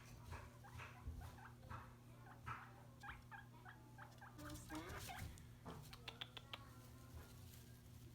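Guinea pigs eating: faint chewing, a quick irregular run of short clicks and crunches.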